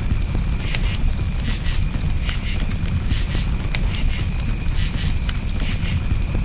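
Campfire crackling, with occasional sharp pops over a steady low rumble, while crickets chirp in steady pulsed trills.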